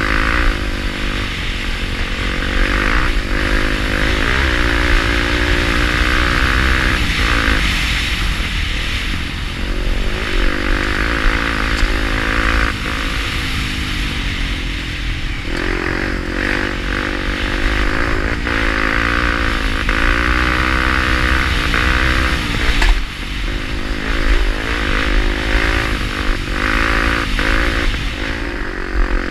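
Honda Tornado's 250 cc single-cylinder four-stroke engine under load off-road, its revs rising and falling repeatedly through throttle changes and gear shifts, with a low wind rumble and scattered clattering knocks from the bike over rough ground.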